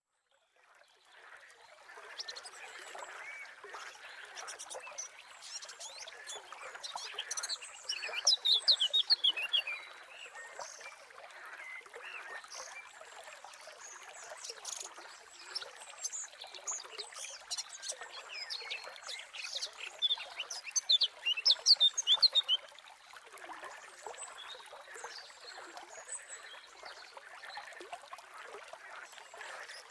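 Birds chirping and singing over a steady faint hiss of outdoor ambience, with two louder bursts of rapid chirps, about 8 and 20 seconds in.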